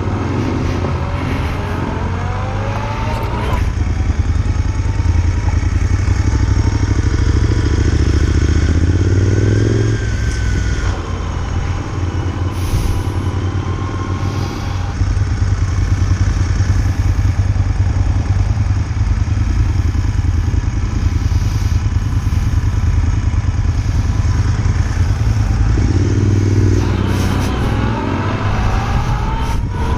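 Motorcycle engine running under way on the road, its pitch rising several times as it accelerates, with a short drop in engine note about ten seconds in.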